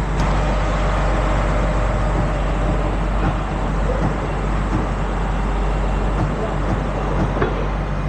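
A truck engine idling steadily, with a short knock about seven seconds in.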